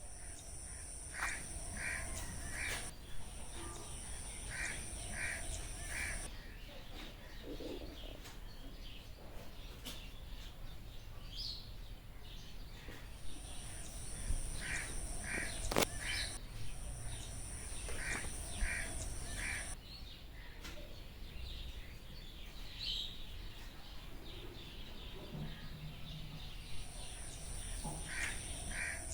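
Rainforest ambience: a high steady insect buzz that comes and goes in blocks of a few seconds, with a bird calling in groups of three short harsh notes, repeated several times. A single sharp click sounds about halfway through.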